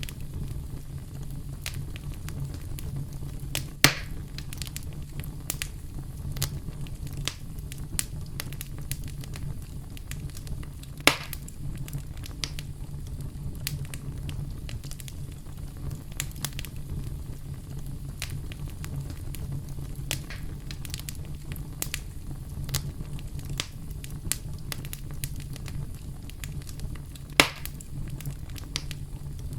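Campfire crackling steadily over a low rumble of the flames, with frequent small snaps and three louder pops.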